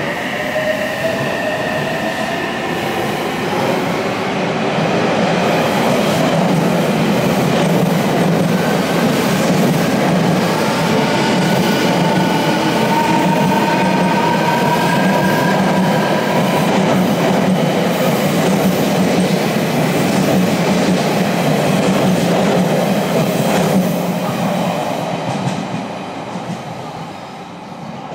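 Odakyu 60000 series MSE Romance-car electric train running through the station: a horn trails off falling in pitch in the first second or two, then wheel and track noise with a faint motor whine runs on for about 24 seconds before fading away.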